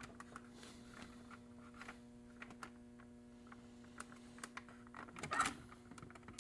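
Small clicks and taps of hard plastic RC body parts being handled and fitted together, over a faint steady hum, with a brief louder scrape about five seconds in.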